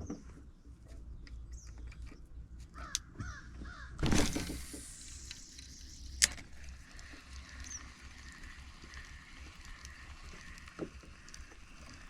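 A bird giving a quick run of calls about three seconds in. A louder rushing noise follows about a second later and fades, then a single sharp click.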